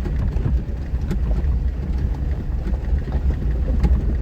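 Four-wheel-drive vehicle creeping along a rough dirt trail, heard from inside: a steady low engine and drivetrain rumble with a couple of light knocks and rattles from the body over the bumps.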